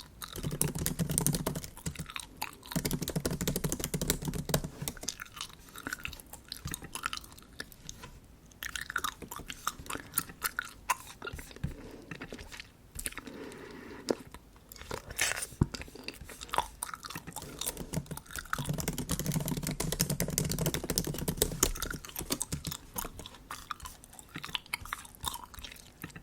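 Bubble gum chewed close to the microphone, with many small sticky clicks and snaps.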